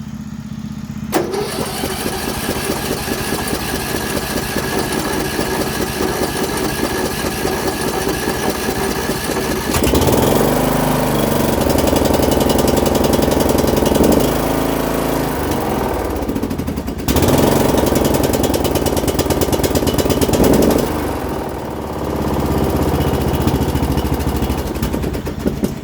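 A Briggs & Stratton 17.5 HP single-cylinder engine on a Mastercraft riding mower cranked by its electric starter for about nine seconds on full choke, a cold start after sitting, then catching and running unevenly, dropping out briefly about sixteen seconds in and sagging again near the end.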